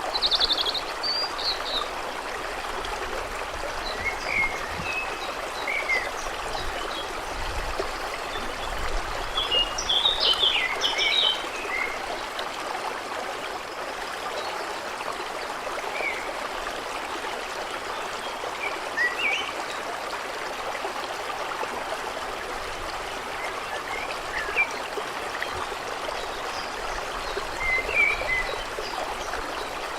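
A stream flowing and babbling steadily, with songbirds giving scattered short chirps and calls, a busier flurry about ten seconds in.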